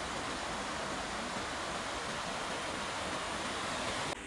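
Waterfall rushing: a steady roar of falling water that cuts off suddenly near the end.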